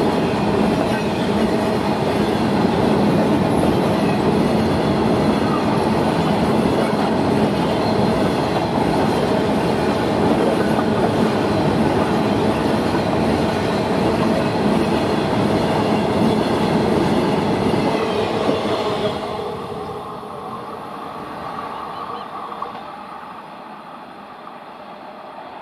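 Indian Railways freight train of BTPN oil tank wagons passing close by, its wheels running over the rails in a loud, steady rumble. About three-quarters of the way in, the sound drops off sharply as the last wagons and the brake van go by, and the train fades as it draws away.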